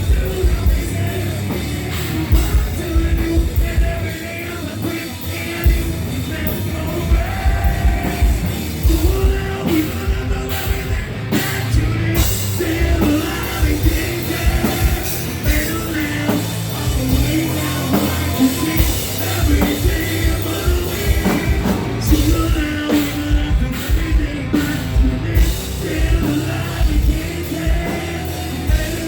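Live heavy rock band playing: pounding drums, distorted guitars and bass, with a sung or yelled vocal line over them, heard loud and somewhat distorted as recorded from the crowd.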